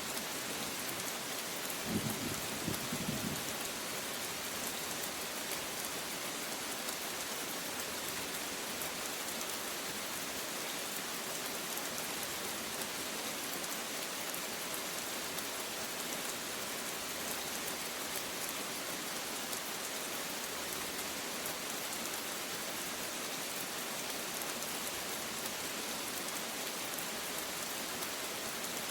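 Steady rain falling, an even hiss of drops on a surface, with a brief low thump about two seconds in.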